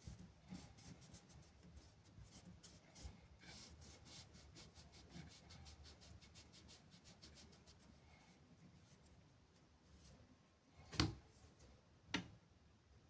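Faint quick scratching or ticking, several strokes a second, like something rubbing or scraping on a surface by hand. It stops partway through, and two sharp knocks follow near the end, the first the louder.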